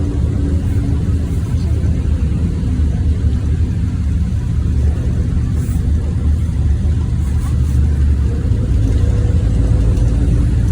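NefAZ 5299 city bus under way, heard from inside the cabin: a steady low rumble of engine and road noise, with a faint engine tone coming up near the end.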